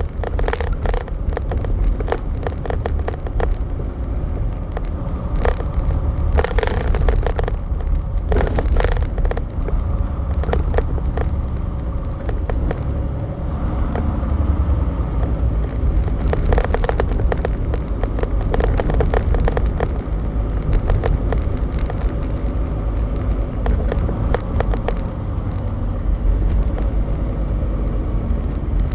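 Semi truck under way, heard from inside the cab: a steady low engine and road rumble, with frequent clicks and rattles coming in clusters.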